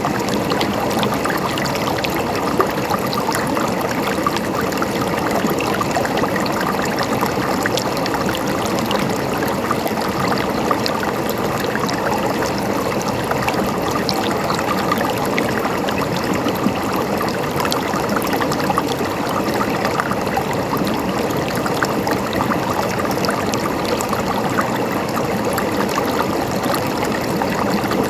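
A mountain stream running steadily, water gurgling and splashing over stones.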